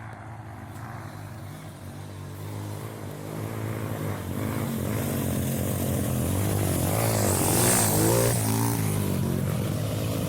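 Engine of an off-road vehicle on a muddy trail, revving up and down repeatedly and growing steadily louder as it comes closer.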